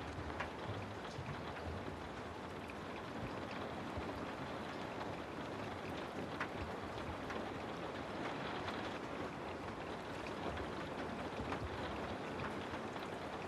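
Steady rain: an even hiss with scattered sharper ticks of single drops.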